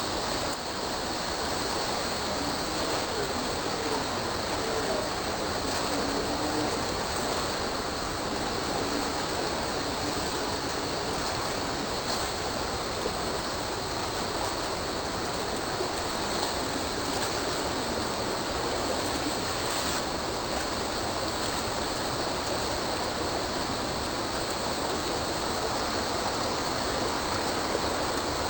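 Steady rush of running water: an unbroken, even noise.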